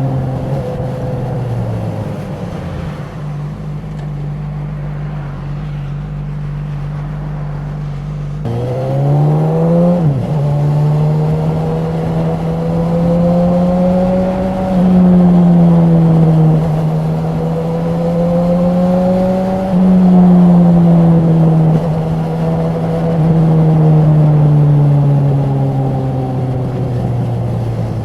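Honda CB1000R's inline-four engine and exhaust under way. The revs fall early and stay low for several seconds, then the bike accelerates hard with the revs rising through three quick upshifts, and it eases off gradually near the end.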